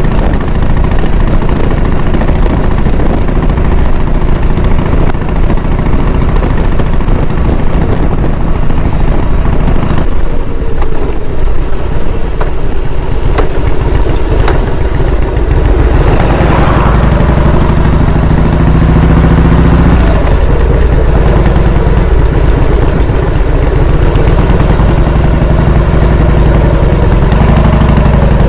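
A vehicle engine runs steadily with a loud low drone, its pitch shifting a couple of times as the engine speed changes. A few short clicks are heard over it.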